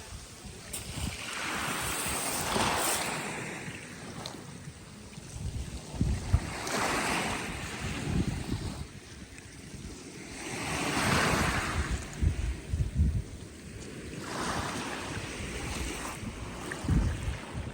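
Black Sea waves breaking on the shore, a hissing surge that swells and recedes every few seconds, with wind rumbling on the microphone.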